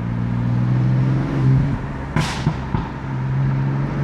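BMW F80 M3's S55 twin-turbo inline-six running at a steady low note, its pitch shifting in small steps, with a single sharp exhaust pop about two seconds in.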